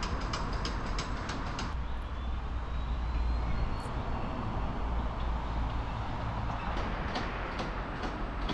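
Steady rumble of vehicle noise, with a run of quick clicks in the first two seconds, a faint rising whine in the middle and a few more clicks near the end.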